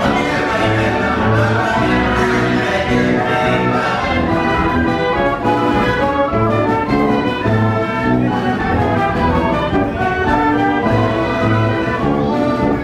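Wurlitzer 157 carousel band organ playing a tune, with a regular bass pattern under the melody; it stops near the end.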